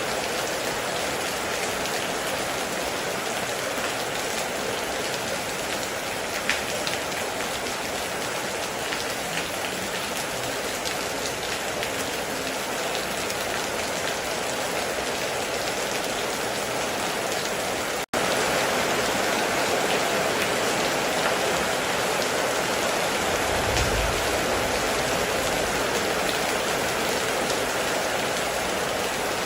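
Heavy rain falling steadily, with individual drops ticking through the hiss. About two-thirds of the way in the sound cuts out for an instant and resumes slightly louder, and a short low rumble follows a few seconds later.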